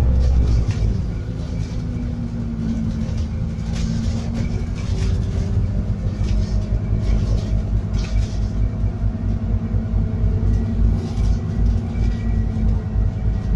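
Interior of a Scania N280UD biogas double-decker bus on the move: the gas engine runs with a steady low rumble, its pitch drifting a little. Short rattles and knocks come from the body and fittings.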